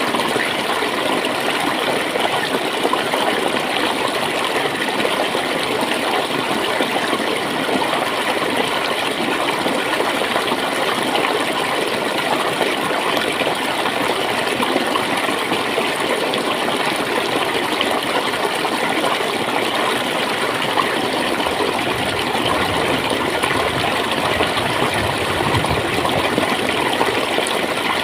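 Clear water flowing and gurgling steadily over stones in a stream.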